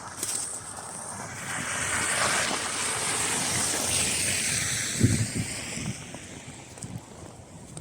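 A vehicle driving past on a slush-covered street, its tyres hissing as the rush builds, peaks and falls away in pitch as it goes by, with a low thump near the end of the pass.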